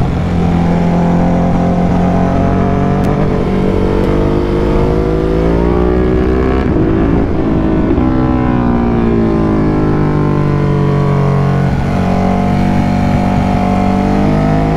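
Motorcycle engine running under way. Its pitch drops as the throttle eases off about halfway through, then climbs again as it accelerates, with another short dip and climb near the end.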